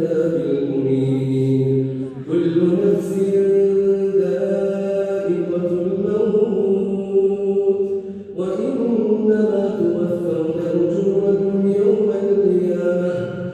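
A man chanting Quran recitation in melodic tajweed, drawing out long held notes that waver in pitch, with two short breaths between phrases.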